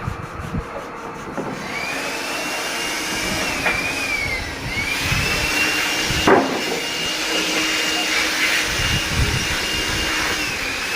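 Band sawmill running, a Wood-Mizer, with a steady high whine that rises about a second and a half in, sags briefly around four seconds and climbs back as the blade takes the cut. A single sharp knock about six seconds in.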